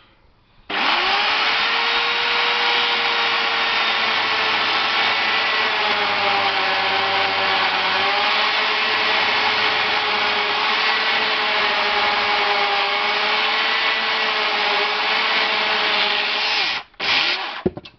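Electric power saw cutting firewood: the motor starts about a second in with a steady high whine, its pitch sagging slightly for a couple of seconds as it bites into the wood. It stops near the end, with one short burst just after.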